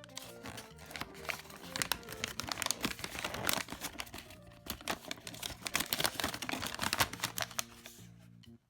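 Toy packaging crinkling and tearing in irregular crackles as it is opened, over steady background music.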